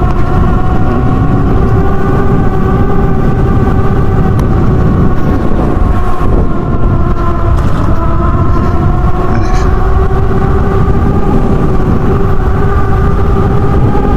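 HappyRun G300 Pro electric dirt bike riding along a road: a steady whine from its rear hub motor and tyres, dipping slightly in pitch partway through and climbing a little near the end, under heavy wind rumble on the microphone.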